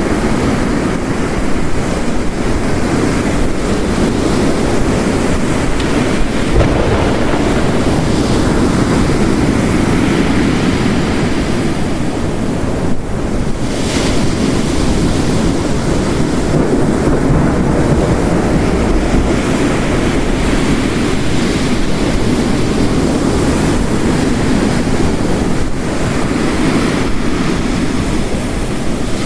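Ocean waves crashing on the shore, layered with heavy rain: a continuous roar that swells and eases slowly.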